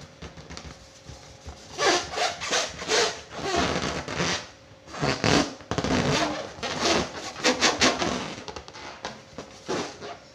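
Rubber balloon rubbed by hand, squeaking in a run of irregular strokes that starts about two seconds in.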